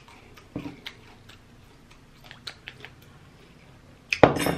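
Close-miked chewing of crispy fried chicken: scattered small crackly clicks and wet mouth sounds, with a dull thud about half a second in and a loud, brief rasping crunch near the end.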